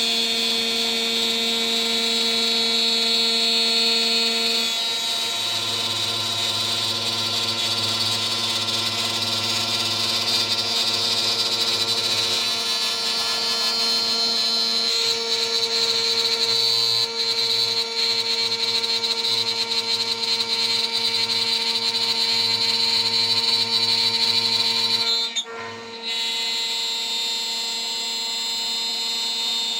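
DIY CNC router spindle running at about 14000 RPM while a 3 mm three-flute end mill mills a part: a steady high whine with a constant underlying tone. A low hum joins in a few seconds in, and the sound briefly drops away near the end.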